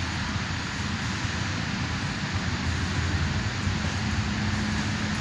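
A vehicle engine running steadily: a low rumble with a steady hum and no change in speed.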